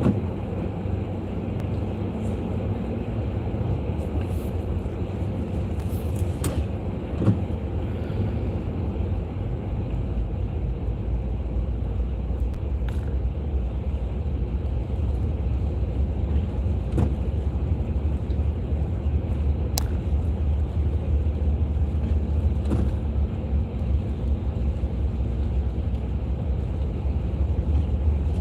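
Cabin road noise of a car being driven on a wet road: a steady low rumble of engine and tyres, with a few faint scattered clicks.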